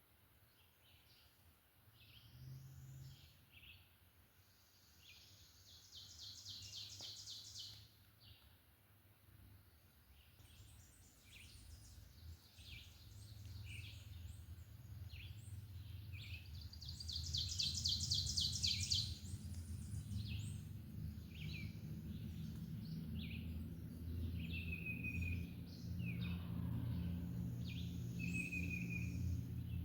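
Woodland songbirds singing: scattered high chirps and two long, rapid high trills, over a low steady rumble that grows louder about halfway through.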